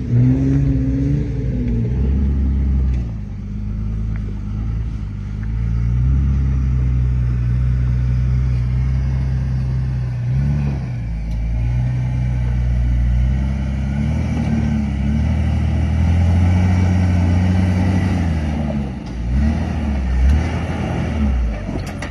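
Off-road vehicle's engine labouring in low gear while crawling up a rock ledge climb, its revs rising and falling with repeated throttle bursts.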